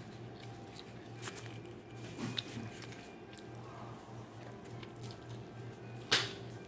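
A person bites and chews a soft-bun Shake Shack cheeseburger, with small wet clicks and crackles over a steady low hum. A single sharp crackle, the loudest sound, comes near the end.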